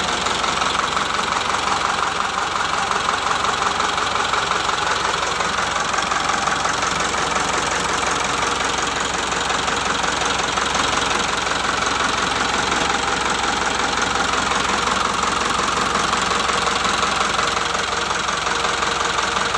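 Isuzu Elf truck's turbocharged four-cylinder diesel engine idling steadily.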